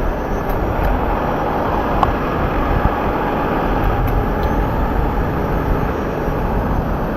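Steady vehicle rumble and road noise from heavy trucks and traffic, with a few faint clicks.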